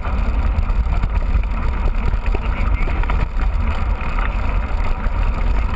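Wind buffeting the microphone in a steady low rumble, with the running noise of a mountain bike being ridden at speed.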